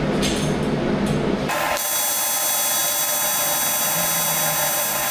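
AC TIG welding arc on aluminum: after about a second and a half of steady low noise, the arc strikes and buzzes steadily, a dense hum of many fixed tones reaching high up.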